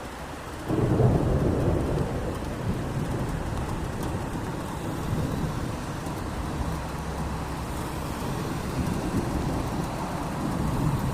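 Steady rain with a thunderclap breaking in suddenly about a second in, its low rumble rolling on and swelling again near the end.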